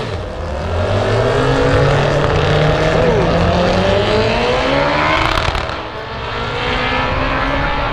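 Race car accelerating hard down a drag strip, its engine note climbing in pitch through the gears, with a drop about six seconds in before it climbs again.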